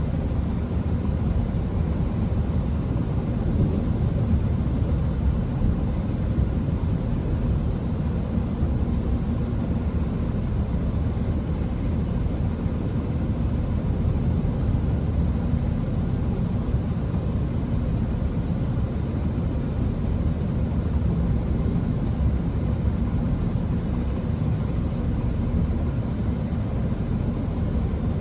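Inside a Chiltern Railways Class 165 diesel multiple unit running at speed: a steady, low rumble of the train under way.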